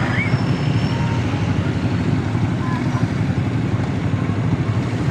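A steady low rumble, with a few faint, short bird chirps over it.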